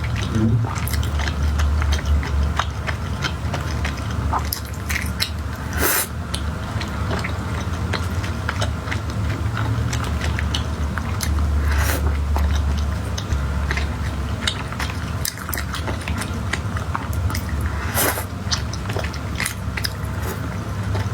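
Close-miked chewing and biting of food, with many small mouth clicks and a few sharper bites.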